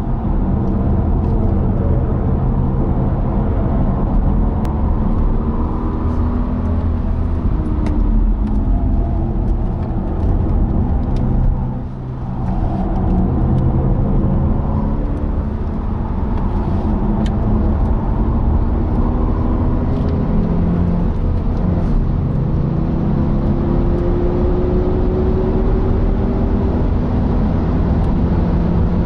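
BMW 420i Gran Coupe's turbocharged 2.0-litre four-cylinder with a Bastuck cat-back exhaust, heard from inside the cabin, pulling at high revs under hard acceleration. The engine note climbs in long rising sweeps through the gears and dips briefly about twelve seconds in before climbing again.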